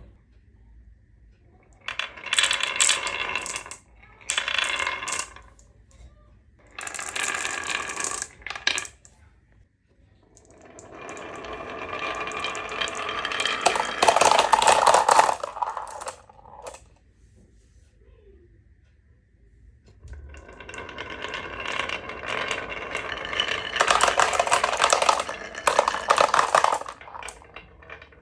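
Marbles rolling and clattering down a marble run, in several bursts. There are three short runs of clatter in the first nine seconds, then a longer one that builds to its loudest around the middle, and another from about two-thirds in until near the end.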